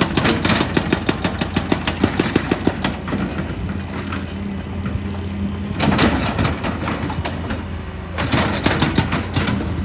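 Heavy machinery's diesel engine running steadily, with three bursts of rapid, irregular clattering knocks from rock being worked: one at the start, one about six seconds in, and one near the end.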